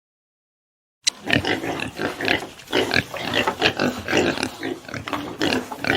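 Pigs calling in a quick, irregular run of short grunts and squeals, starting suddenly about a second in after a moment of silence.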